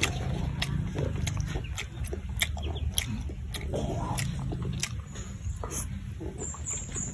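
Close-up mukbang eating sounds: a person chewing with open-mouthed, wet lip-smacks and sharp mouth clicks coming irregularly, several a second. A steady low hum runs underneath.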